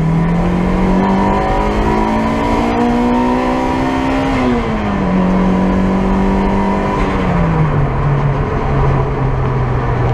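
Turbocharged Toyota 2ZZ four-cylinder engine pulling hard under load, heard from inside the cabin: the revs climb steadily for about four seconds, then drop quickly and hold, and fall again about three-quarters of the way through. Road and wind noise runs underneath.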